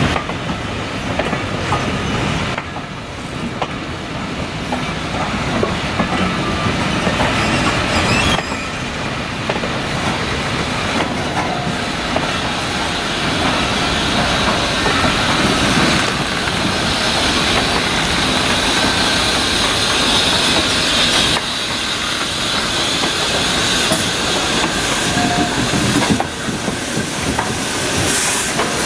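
Rake of passenger coaches rolling slowly over station pointwork, wheels clicking over the rail joints with some flange squeal. Near the end the steam locomotive Tornado, an LNER Peppercorn A1 Pacific, draws close with a hiss of steam.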